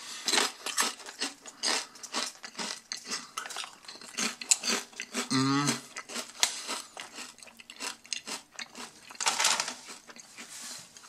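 Close-up chewing of thick, cauldron-cooked potato chips: a dense run of crisp crunches, with a short voiced hum from the eater about halfway through.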